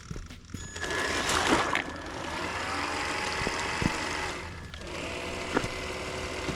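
Electric motor of an RC car whining as it runs again, its pitch wavering, cutting out briefly about four and a half seconds in and starting up again, with a few light knocks.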